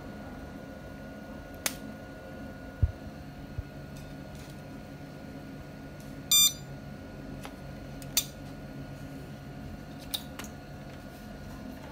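A single short electronic beep about six seconds in, the loudest sound, with a few faint clicks and a low steady hum around it.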